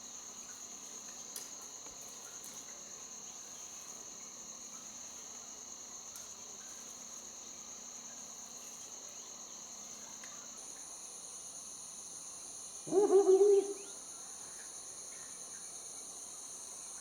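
Steady chorus of insects, crickets or similar, keeping up a continuous high, even shrilling; a second, higher-pitched insect joins about two-thirds of the way through. Near the end, a person's short voiced exclamation lasts under a second and is the loudest sound.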